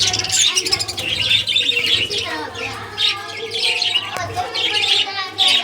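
Budgies chirping and chattering in repeated quick bursts of high warbling.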